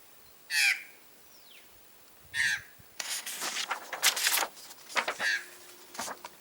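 Bird calls: several short, harsh calls spaced a second or two apart, with a longer run of calls about halfway through.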